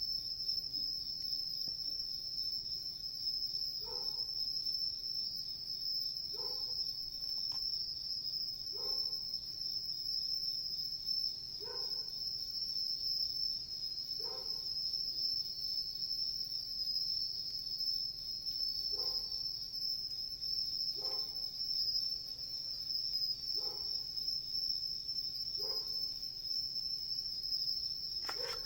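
Night insect chorus: a steady, high, unbroken chirring. Over it, a short low call repeats about ten times, roughly once every two and a half seconds, starting about four seconds in.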